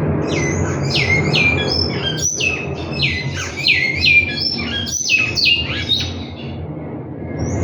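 Large-billed seed-finch (bicudo) singing: a phrase of about ten clear whistled notes, each sliding steeply down and then held briefly, over a steady low background rumble.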